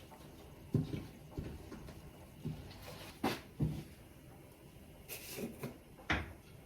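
Irregular knocks and thumps of household things being handled in a small room, about seven in all, with the sharpest about halfway through and again near the end.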